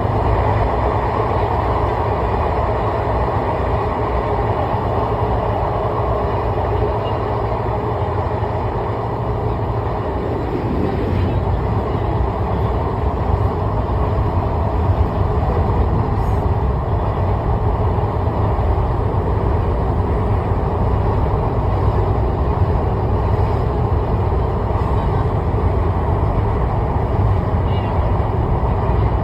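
Steady rumble and road noise of a moving vehicle travelling at speed, heavy in the low end, with a slight rise in loudness about a third of the way in.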